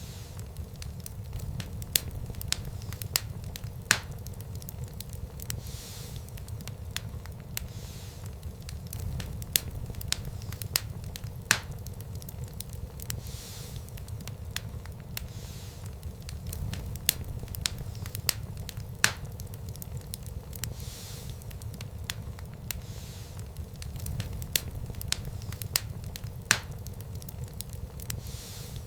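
Wood fire crackling in a fireplace: a steady low rumble of flames with irregular sharp crackles and occasional louder pops.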